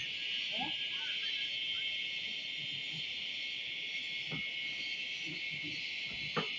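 Forest insects shrilling in a steady, unbroken high-pitched chorus, with a sharp click near the end.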